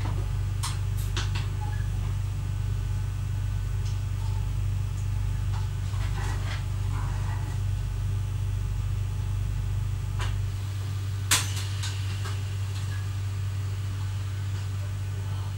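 Steady electrical hum in the driver's cab of an X11 electric multiple unit, with scattered clicks and one sharp click about eleven seconds in. The deepest part of the hum cuts out about ten seconds in.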